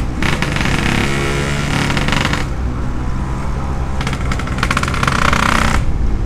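Yamaha RX-King's single-cylinder two-stroke engine running steadily through an aftermarket 'setengah dewa' exhaust, its pitch staying roughly level, with a burst of hiss near the end.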